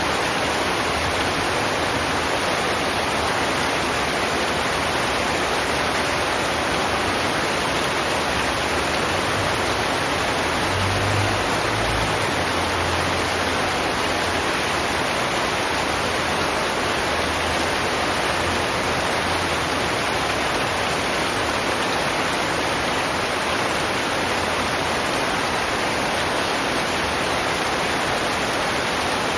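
Heavy rain falling steadily, an even, unbroken hiss, with a brief low rumble a little over a third of the way in.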